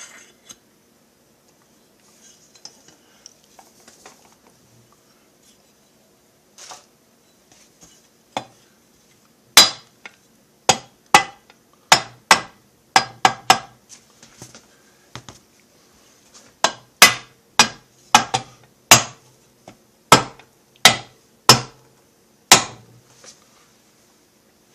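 A hammer tapping on metal: about eighteen sharp, ringing strikes, one to two a second, starting about ten seconds in after some faint handling sounds.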